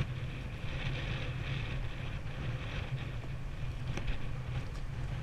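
Wind noise buffeting the microphone over a steady low rumble, with a few faint clicks.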